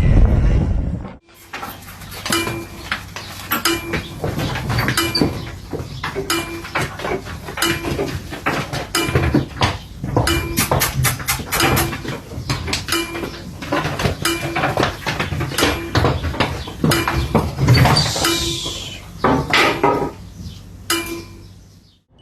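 Cattle mooing that cuts off about a second in, followed by a long irregular clatter of sharp clinks and knocks, several a second, with a short low tone recurring between them.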